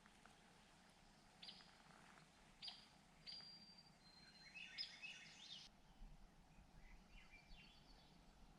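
Faint birdsong over quiet outdoor ambience: a few short high whistled notes, then a quick run of chirps around the middle, and fainter chirps later.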